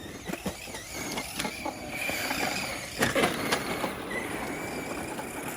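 Tamiya Monster Beetle RC monster truck running on its last lap: a thin, steady motor-and-gear whine that rises briefly about four seconds in, over rustling and several sharp clicks and knocks from the truck bouncing across the track.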